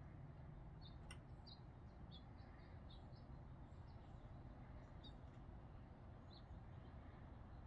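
Near silence with a steady low background rumble and faint, scattered short bird chirps throughout; one sharp click about a second in.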